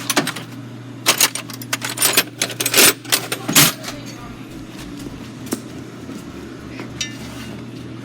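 Metal hand tools clinking and clattering, with a dense flurry of sharp clanks over the first four seconds and a few scattered ones after, over a steady low hum.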